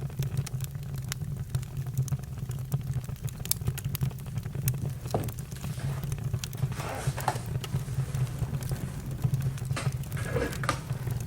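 Campfire crackling: many scattered sharp pops and snaps over a steady low rumble, with a few louder crackles about seven and ten seconds in.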